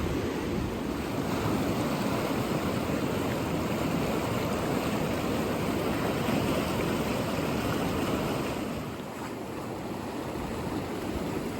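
Mountain river rushing steadily, running high with spring runoff; the sound eases slightly near the end.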